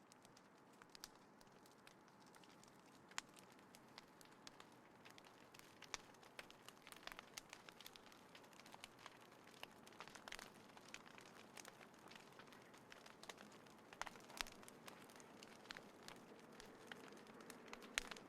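Small fire in a folding fire pit crackling steadily, with irregular sharp pops and snaps over a faint hiss.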